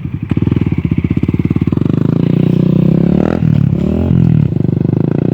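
Off-road trail motorcycle engine running with a fast, even putter, revved up and back down twice about three and four seconds in.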